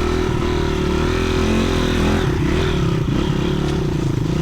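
Dirt bike engine running at a fairly steady pitch, with a brief dip about halfway through.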